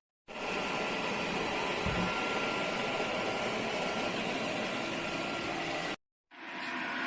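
DB300 robot vacuum running with a steady whirring hiss. The sound cuts out abruptly twice, at the start and about six seconds in, and comes back each time.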